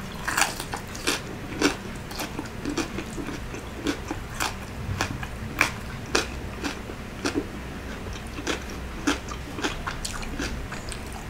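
A person chewing crispy fried pork belly cubes (lechon kawali) with rice: irregular crunches and wet mouth clicks, about two a second.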